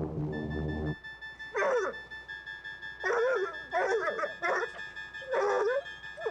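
A low aircraft-engine drone cuts off about a second in. Then a canine, dog or coyote, howls and yips in five short calls, each bending up and down in pitch, over a faint steady high tone.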